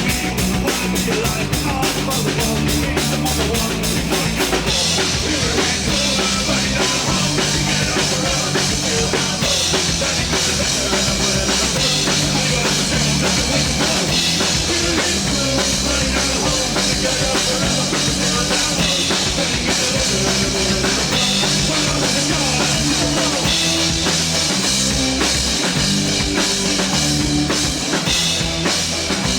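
Rock band playing an instrumental passage, with drum kit, bass and guitar. A fast, even run of drum strokes marks the first few seconds before the beat settles.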